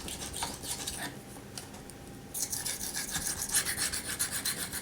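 SOG Flash 2 knife blade scraping in quick repeated strokes across a sharpening surface, with a lull before halfway and then a steady run of strokes.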